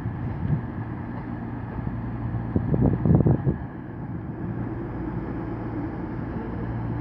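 Diesel engines of a Class 221 Super Voyager idling at the platform, a steady low hum. About three seconds in there is a brief louder rumble.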